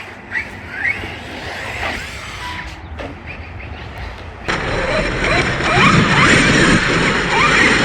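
Small brushed electric motor of an Arrma Granite Grom Mega 380 RC monster truck whining up in short throttle bursts over tyre and ground rumble. The sound gets suddenly louder about halfway through.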